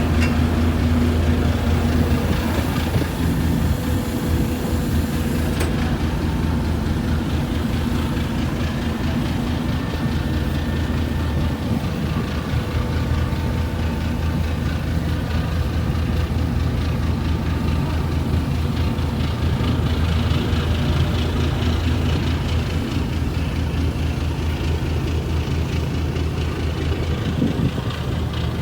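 Fishing boat's diesel engine running steadily under way, a deep, even drone with a low hum and some wash noise over it.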